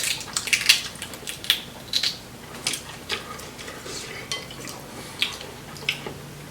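Clicks and clatter of a bowl of boiled seafood being picked through during eating, shells and utensils knocking against the bowl, the short clicks coming thick at first and thinning out in the second half.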